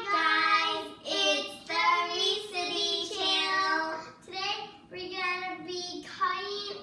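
A child singing a short tune in a high voice, holding each note for about half a second to a second, in phrases with brief breaks between them.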